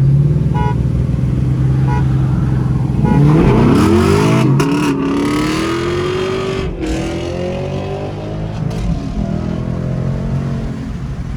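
Car engine held at steady revs, then launched hard about three seconds in, climbing in pitch with two shifts before easing off as the car pulls away. The launch is a botched takeoff in which the car goes sideways.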